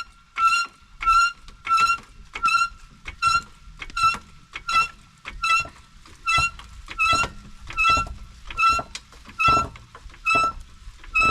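An electronic beeper sounding one steady pitch, about two beeps a second, that stops near the end.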